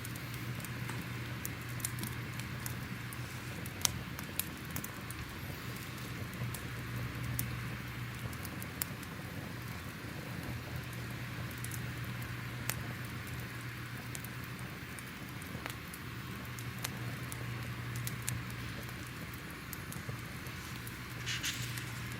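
Crackling fire: irregular sharp pops and crackles scattered over a steady low rumble.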